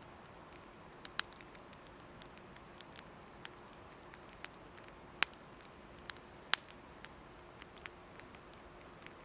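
Wood fire burning with irregular sharp crackles and pops over a faint steady hiss, two louder pops about five and six and a half seconds in.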